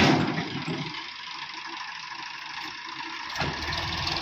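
Diesel engine of heavy machinery running, with a loud thump right at the start. The engine sound drops back and then rises again about three and a half seconds in.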